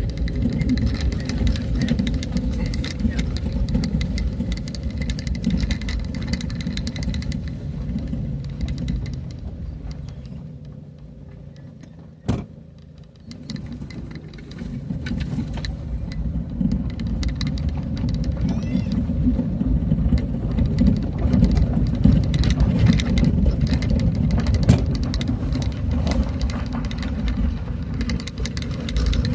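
Motor vehicle running along a road, a steady engine rumble with frequent rattling jolts. It drops away for a few seconds midway, with one sharp click, then picks up again.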